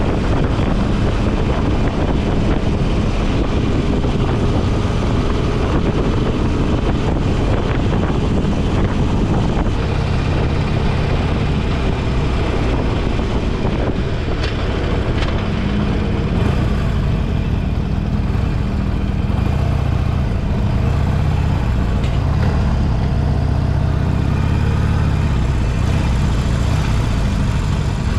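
Motorcycle engine running on the move, with wind rush over the microphone; about halfway through the wind hiss eases while the engine's low drone stays strong, as the bike slows.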